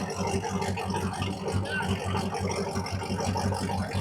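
Car engine running with a choppy, pulsing low note over a steady noisy bed.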